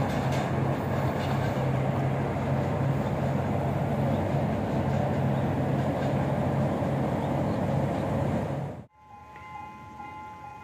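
Passenger train running away along the track: a steady rumble of the coaches' wheels on the rails with a low, even hum, cutting off abruptly about nine seconds in. After the cut it is much quieter, with a few faint steady high tones.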